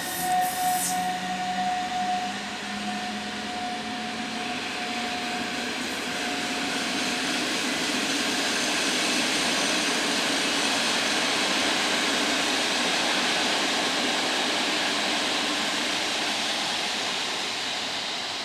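Train running past on the rails: an even rushing noise that builds to its loudest about ten seconds in and then slowly fades. At the start a steady whine, with one lower tone rising slightly, dies away within the first few seconds.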